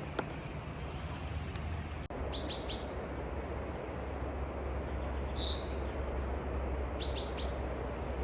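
Small bird chirping outdoors: a quick run of three short, falling chirps, a single chirp, then another run of three, over a steady low background hum.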